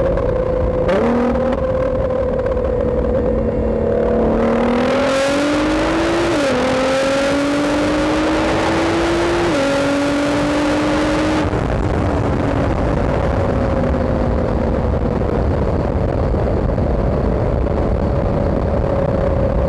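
Nissan GT-R fitted with aftermarket mid pipes, its engine accelerating hard. The exhaust note climbs, drops at two gear changes about three seconds apart, climbs again, and then falls away slowly to a steady cruise or idle as the throttle comes off.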